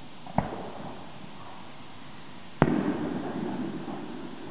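Two fireworks bangs about two seconds apart, the second louder and followed by a low rumble that fades over about a second and a half.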